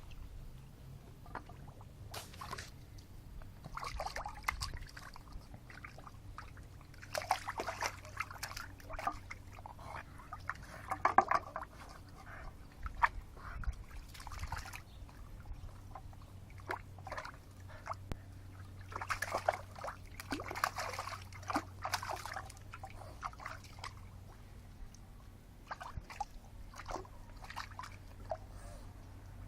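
Water in a bird bath sloshing and splashing in irregular bouts as a Boston terrier–French bulldog mix plays in it.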